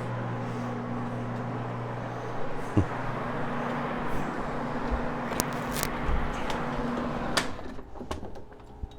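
Carpet-cleaning floor machine running steadily with a hog's hair fibre pad scrubbing the carpet, with a few knocks; the motor stops with a click about seven seconds in.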